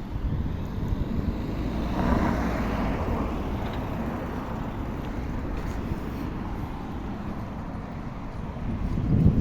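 Road traffic heard from a bicycle, with a steady low rumble of wind and road noise; a vehicle passes about two seconds in, swelling and fading over a few seconds.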